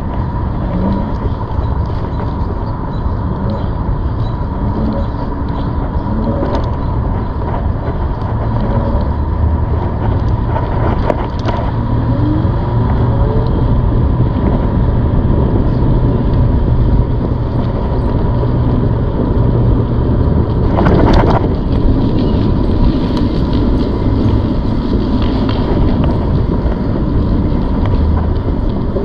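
Steady riding noise from a ZOOZ electric bike under way: low rumble and wind on the microphone, with a thin steady whine running throughout and a brief clatter about twenty seconds in.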